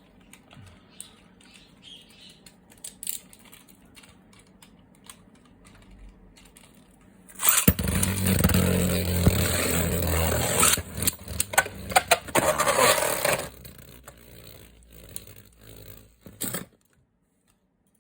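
Light plastic handling clicks, then, about seven and a half seconds in, a Beyblade spinning top is launched and whirs loudly as it spins, with a steady hum, scraping and a few clacks, for about six seconds before it winds down.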